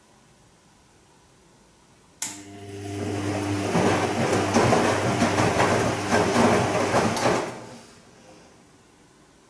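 Bosch Serie 2 Vario Perfect washing machine mid-cycle on its delicate Silk programme. A click about two seconds in, then a humming motor with swishing water that builds over about five seconds and dies away.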